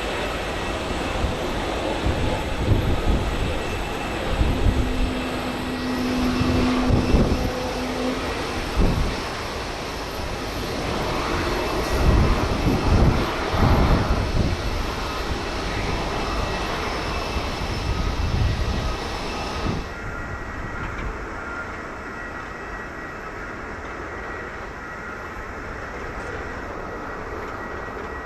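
Jet airliner engine noise from a Boeing 737 taxiing, with uneven low rumbling swells. About two-thirds of the way through, the sound changes abruptly to quieter, steadier jet noise from a FedEx MD-11F getting under way for takeoff.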